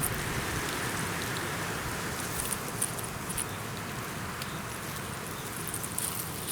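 Steady wind noise in a pine forest, with scattered light crackling over it.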